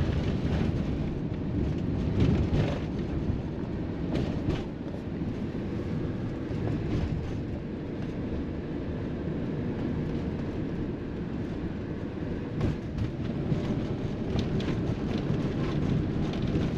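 Motorhome driving along a road: a steady low rumble of engine and tyre noise heard from inside the cab, with a few brief knocks and rattles.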